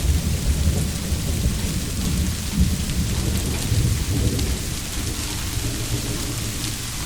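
Steady rain with a low rolling rumble of thunder underneath.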